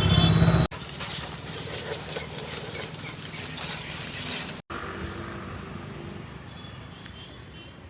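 Bajaj Pulsar RS200 motorcycle's single-cylinder engine running, in two short cuts, the second quieter and fading. Loud intro music cuts off under a second in.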